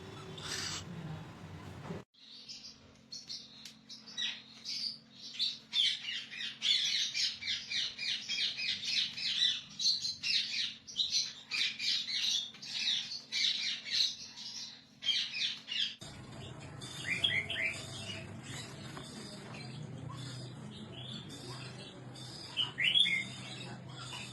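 Parrots chirping and squawking in a dense, rapid run of short high calls, over a faint steady hum. Then only a few scattered falling chirps remain, the loudest near the end.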